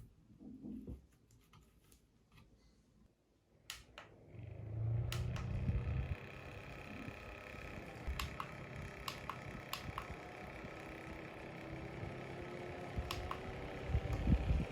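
A few light clicks, then a small USB fan starts about four seconds in and runs steadily with a faint hum, with low thumps about five seconds in and near the end.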